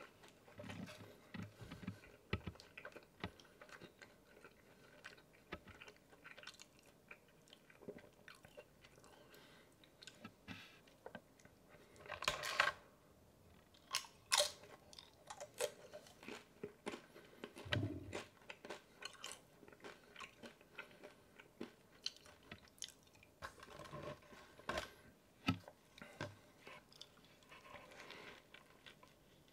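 Close-miked chewing and biting of a California burrito: wet mouth clicks and smacks, with a few louder bites about twelve and fourteen seconds in.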